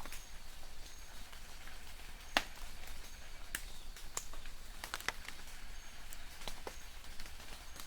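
Light rain in a forest: irregular drops tapping and dripping on leaves as scattered sharp ticks over a soft hiss, the loudest tick about two seconds in. Distant birds give brief high chirps now and then.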